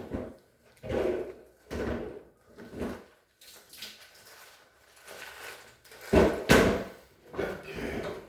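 A series of knocks and thuds from handling a refrigerator's doors and parts, with the loudest two bangs close together about six seconds in.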